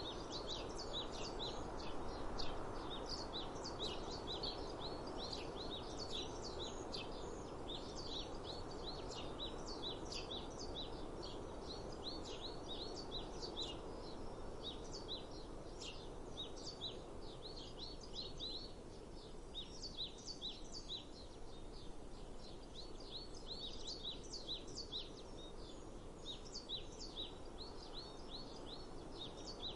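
Many small birds chirping busily and continuously over a steady outdoor background noise that eases a little after the middle.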